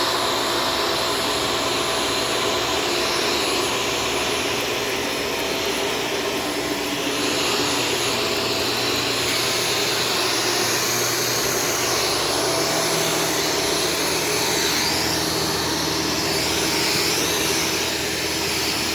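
Shark Stratos upright vacuum cleaner running steadily, its higher hiss rising and falling a little.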